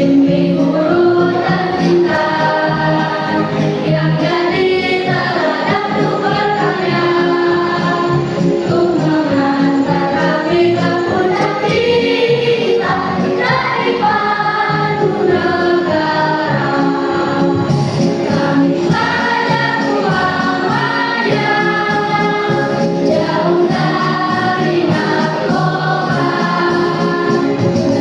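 Junior high school choir singing a song together, with continuous sung phrases that move from note to note.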